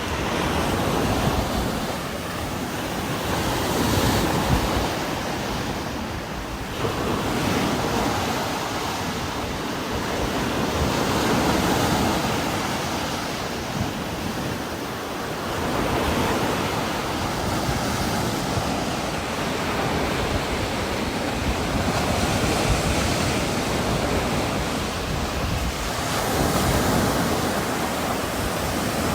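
Heavy rain pouring steadily with strong wind gusting through trees, the hiss swelling and easing every few seconds.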